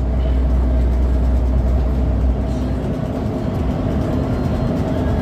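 Pelita Paradep coach bus on the move, a steady engine and road rumble with a deep drone that eases off a little over two seconds in.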